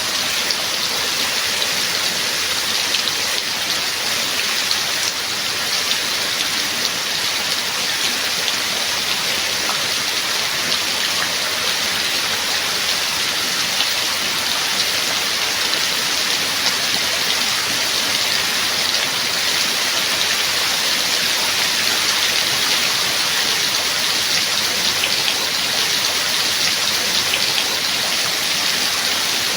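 Steady heavy rain falling, an even hiss of many drops.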